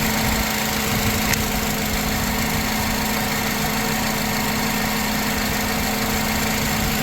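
2004 Honda Accord engine idling steadily, with one light click about a second in.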